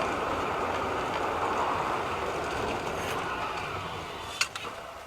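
Steady road and wind noise from a moving car, slowly fading, with one sharp click about four and a half seconds in.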